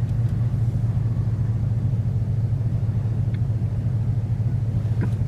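Car engine and road noise at a slow crawl, a steady low rumble heard from inside the cabin.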